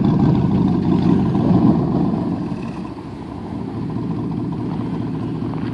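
2004 Chevrolet Suburban's V8 running through a custom Magnaflow exhaust. It is louder at first, eases down over about three seconds, then runs steadily.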